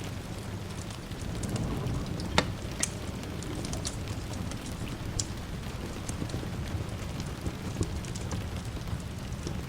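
Steady rain hiss mixed with crackles and pops from a wood fire in a fireplace, with one sharp, louder pop about two and a half seconds in, over a low rumble of distant thunder.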